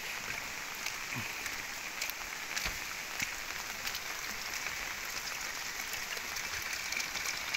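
Steady heavy rain falling, with scattered close drops ticking on surfaces.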